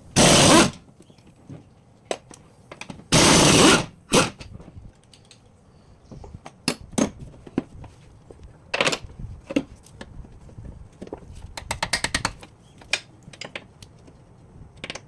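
Two short bursts from an impact wrench, the second about three seconds after the first and each under a second long, as bolts are run on the Toyota Corolla's gearbox and clutch. Scattered metallic clicks and knocks of tools and parts follow.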